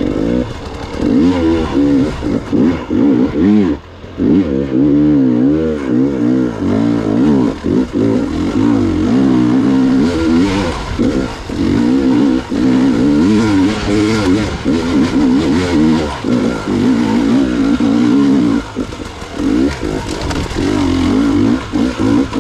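Gas Gas EX 300 two-stroke enduro motorcycle engine being ridden hard, its pitch rising and falling constantly as the throttle is worked. It drops off sharply for a moment about four seconds in, and again briefly near the end.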